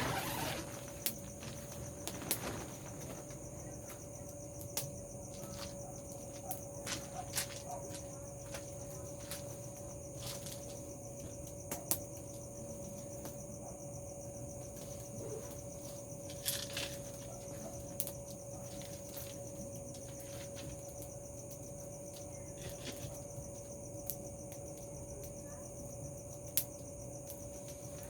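A steady night-time chorus of crickets and other insects, with scattered sharp pops and crackles through it.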